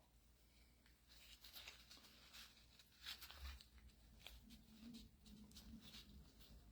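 Near silence, with faint scattered scratches and light ticks of fingers working a cut O-ring gasket into the groove of a metal pump cover.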